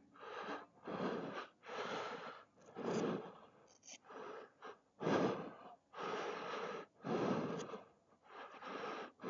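A person breathing hard, with loud in and out breaths about once a second.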